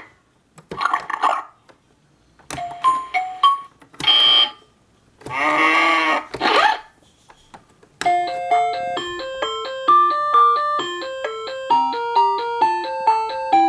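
VTech Phonics Teacher electronic toy playing short sound effects and chimes after a button press. About eight seconds in it starts a beeping electronic tune of quick stepped notes.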